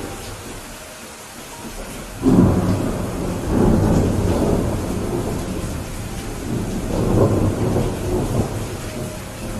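Steady rain with thunder: a loud rumble breaks in suddenly about two seconds in and rolls on for a couple of seconds, and a second rumble swells and fades near the end.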